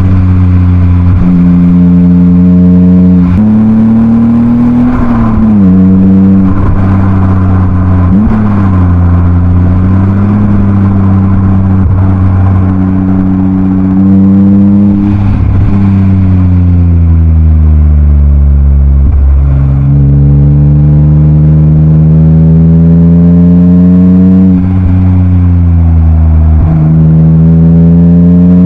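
BMW E36 328i's M52B28 2.8-litre straight-six, breathing through a Schmiedmann rear silencer, pulling through the gears: the revs climb and drop back at each shift. In the middle the revs fall away for a few seconds, then climb steadily again.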